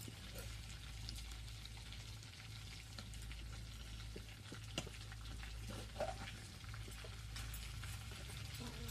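Food frying in hot oil in a pan while being stirred: a steady sizzle full of small crackles, with two sharper knocks about halfway through.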